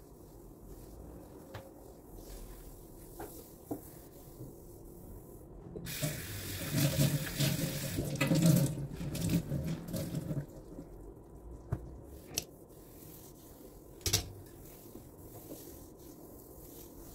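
Tap water running into a sink for about four seconds, starting about six seconds in. A few light clicks and knocks come before and after it, the sharpest near the end.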